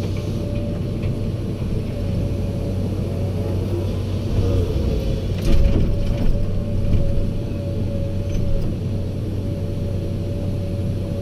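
Heavy diesel equipment engine running steadily with a constant whine over it, and a few clanks and knocks in the middle.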